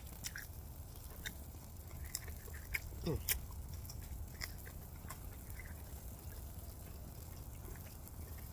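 Mouth sounds of someone eating chicken wings off the bone: scattered soft clicks and smacks of chewing, with a short falling "mm" hum about three seconds in.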